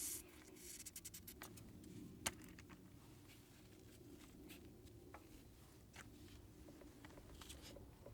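Near silence with a few faint small clicks and taps, a quick run of them in the first second or so and one sharper click a little over two seconds in.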